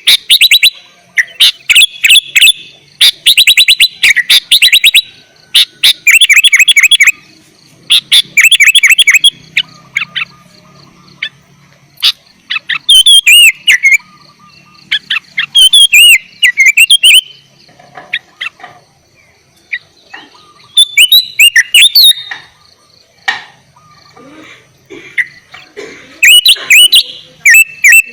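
Sooty-headed bulbul singing: loud bursts of quick, repeated chattering notes followed by phrases of sweeping whistled notes, with short pauses between phrases.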